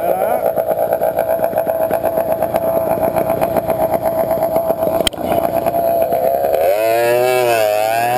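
Small motorized-bicycle engines running at a steady, rapidly pulsing idle on the start line, with a sharp click about five seconds in; near the end the engine pitch rises and falls repeatedly as they are revved.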